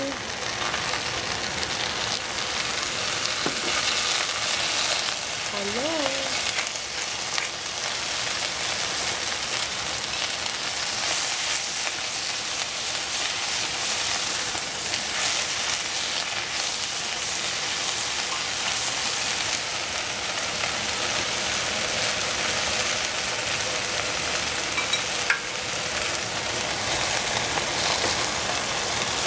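Fried rice with Chinese cabbage sizzling in a hot pan as it is stirred: a steady frying hiss with small scrapes and clicks from the stirring.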